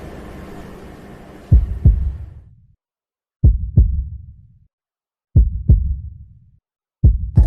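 Heartbeat sound effect: four double thumps, about two seconds apart, with silence between them. A low steady rumble fades out under the first pair.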